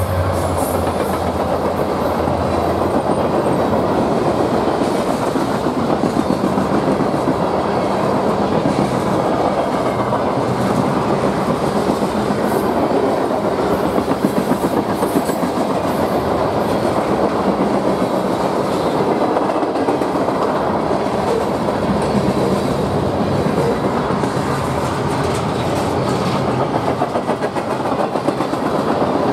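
BNSF freight train passing at speed close by, a steady rush of wheel-and-rail noise with clickety-clack over the rail joints. The locomotives' diesel engines give a low drone in the first few seconds, which fades as the cars follow.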